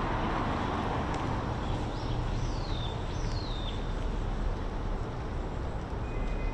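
Steady hum of distant city traffic, with a bird giving two short calls about two and three seconds in, each sweeping down in pitch.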